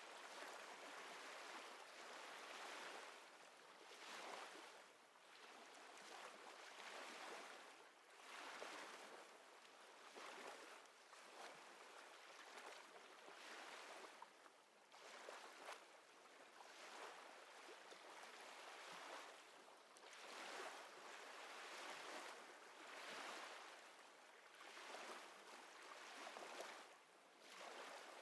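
Faint small waves lapping, a soft wash of water that swells and fades every couple of seconds.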